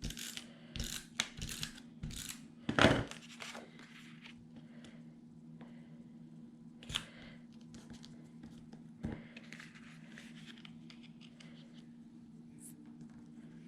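Scissors snipping paper: a quick run of short cuts in the first few seconds, the loudest about three seconds in, then a couple of lone clicks. A faint steady hum runs underneath.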